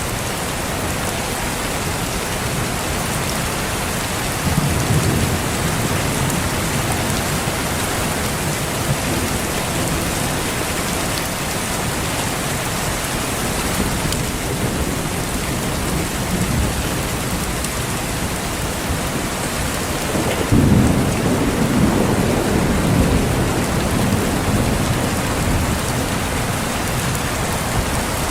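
Steady heavy rain with thunder: a rumble of thunder rolls in about four and a half seconds in, and a louder, longer rumble about twenty seconds in, over the rain.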